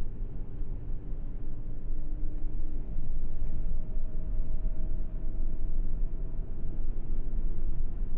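Sandstorm wind buffeting the microphone as a loud, low, steady rumble, with a faint hum underneath that slowly rises in pitch through the middle.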